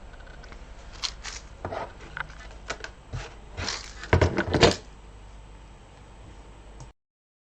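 Clicks and knocks of plastic bead storage containers being handled and closed, a scattered run of sharp taps with the loudest cluster about four seconds in.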